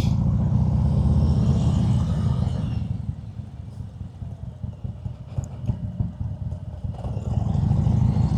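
Harley-Davidson Road King Special's Milwaukee-Eight V-twin running, heard through a helmet mic. It pulls louder for the first few seconds, eases off in the middle, and comes up again near the end.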